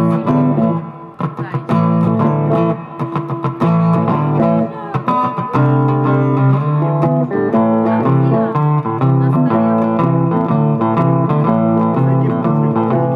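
Blues played on guitar: a run of plucked notes over a repeating low bass line.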